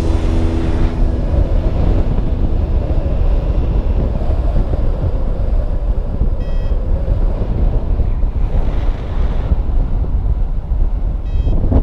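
Strong wind buffeting the microphone: a loud, steady rumble with hiss.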